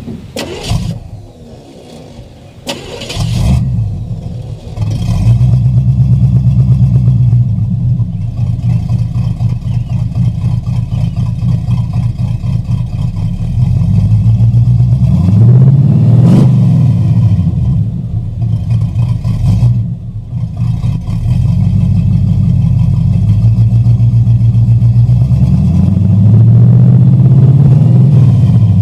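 A 1982 Chevy K10's 350 V8 with headers and Flowmaster Super 10 mufflers on dual exhaust starts about three seconds in and settles to a loud idle. It is revved twice, once in the middle and once near the end.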